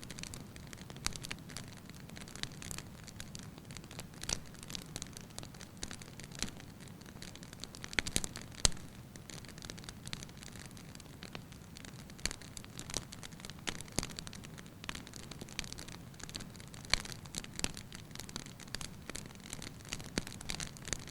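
Wood fire burning in a fireplace: logs crackling with irregular sharp pops and snaps over a soft steady hiss of the flames, a few louder pops about eight seconds in.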